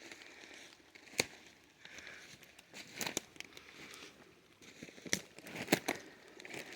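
Crackling and rustling with a few sharp clicks, about a second, three seconds, five seconds and nearly six seconds in, over a faint steady wash of flowing water.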